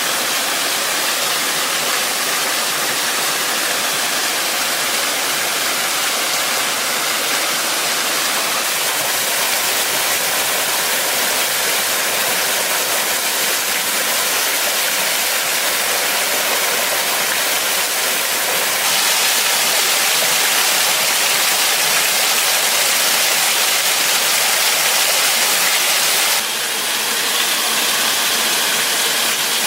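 Waterfall, a steady rush of falling water, with the loudness shifting slightly a few times.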